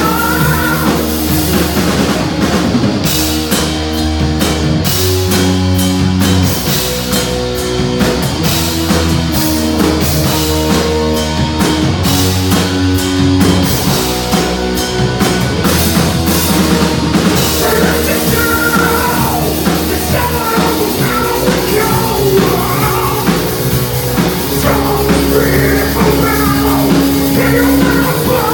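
Heavy metal band playing live at a steady, loud level: electric guitar, bass and drum kit.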